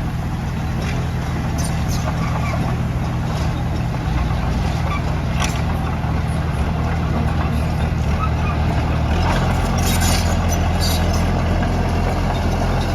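Heavy diesel engine of earthmoving machinery running continuously, its note changing about four seconds in and again about nine seconds in, with a few short high metallic clicks and squeaks.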